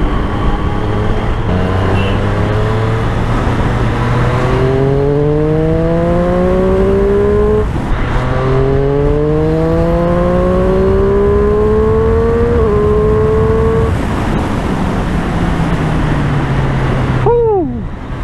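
Motorcycle engine accelerating hard: its pitch climbs, drops at a gear change, climbs again through the next gear, then eases off. A short falling sound comes near the end.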